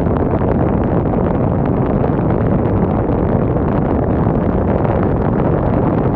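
Strong wind blowing on the microphone: a steady, loud low rushing noise with no gaps.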